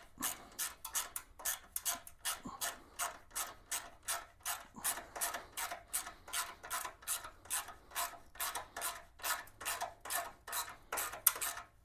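Hand ratchet wrench clicking steadily, about three to four clicks a second, as a bolt is run in. The clicking stops near the end.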